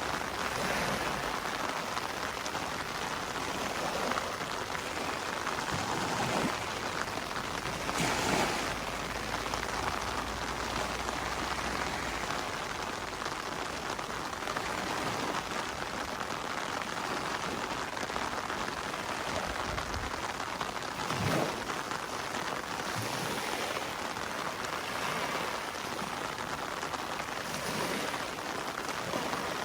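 Rain from a summer rainstorm falling steadily as an even hiss, with a few brief louder swells, the strongest about eight seconds in.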